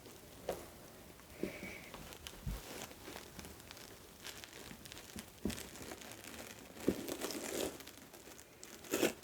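Keyboard packaging being handled: intermittent crinkling and rustling with small knocks, busiest a little past halfway through and again near the end.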